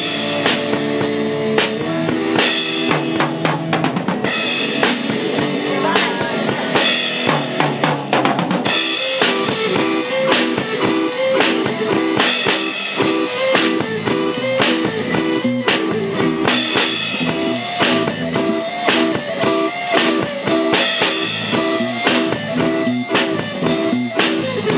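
Live band rehearsing an instrumental passage: a drum kit playing a busy beat of bass drum and snare under pitched instruments repeating a short phrase.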